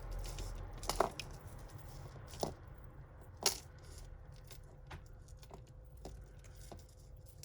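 Costume jewellery being handled and sorted: beads and necklaces clicking and clinking against each other and the table in a few separate sharp taps, the loudest about a second in and again about three and a half seconds in.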